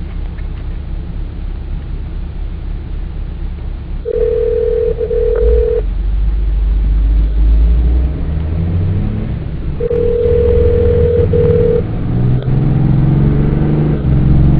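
Telephone ringback tone through a car's hands-free speaker: two rings, each about two seconds long, about four seconds apart, while the outgoing call waits to be answered. Under it runs steady car engine and road rumble, which grows louder in the second half.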